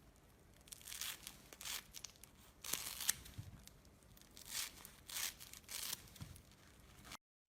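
Slime being worked by hand, giving a run of about seven short crisp, crackly sounds. The sound cuts off abruptly near the end.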